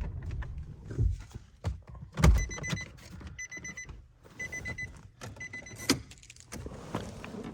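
The Nissan Frontier's in-cab warning chime beeps in short rapid bursts about once a second, four bursts in all. Two dull knocks come before the chime starts.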